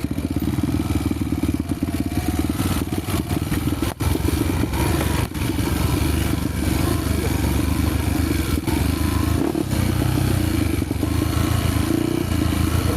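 Honda XR 250 Tornado's single-cylinder engine running steadily while ridden on a dirt trail, with a few brief knocks and rattles from the bike.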